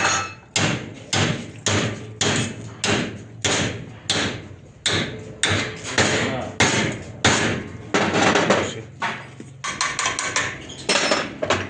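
A hammer striking metal repeatedly at a steady pace of about two blows a second, each blow ringing briefly, with a quicker run of blows near the end.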